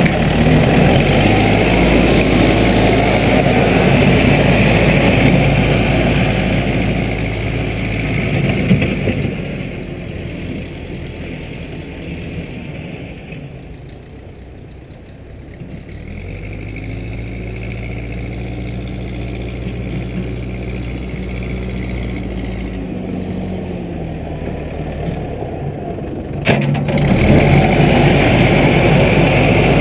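Case 580B backhoe's engine running steadily, dropping off to a low, quiet level about halfway through and building back up. A sharp click comes about three quarters of the way in, and after it the engine is suddenly loud again.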